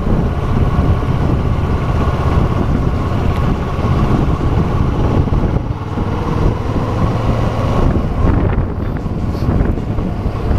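Kawasaki Versys 650 parallel-twin engine running steadily while the motorcycle rides along, with wind noise on the microphone.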